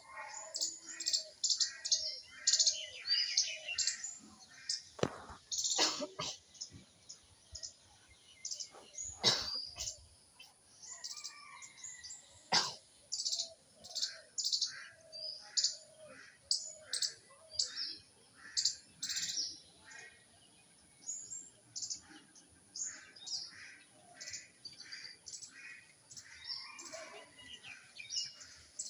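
Small birds chirping, short high calls repeating several times a second, with a few sharp clicks in the first half.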